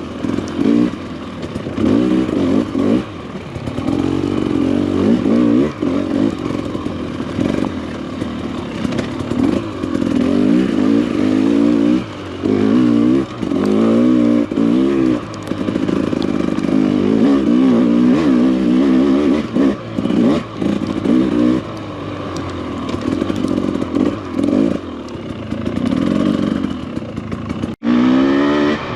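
Enduro dirt bike engine being ridden on a trail, the revs rising and falling over and over as the throttle is worked. The sound drops out for an instant near the end.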